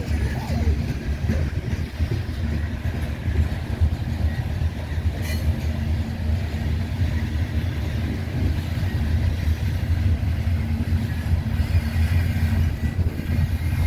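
Loaded coal hopper cars of a freight train rolling past on the rails: a steady low rumble of wheels and trucks that rises and falls unevenly, with one sharp clank about five seconds in.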